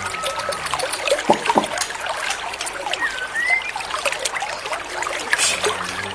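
Water trickling and splashing in a continuous stream of small drips, with a short whistled note about three seconds in.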